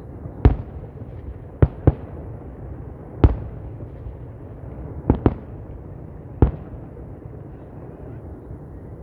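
Fireworks shells bursting in the sky: about seven sharp bangs at irregular intervals, two of them close together about two seconds in and two more about five seconds in, over a steady low rumble.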